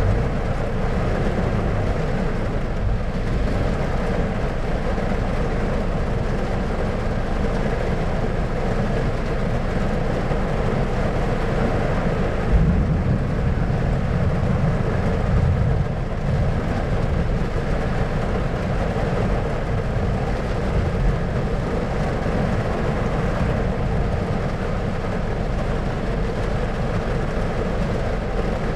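Thunderstorm ambience: a steady low rumbling noise, swelling louder for a few seconds about twelve seconds in.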